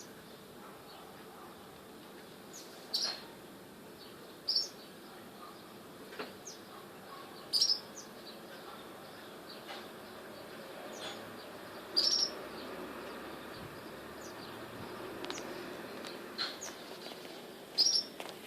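A hummingbird (zunzún) giving short, sharp, high chirps every few seconds, about five clear ones among fainter ticks, over a steady low background hiss.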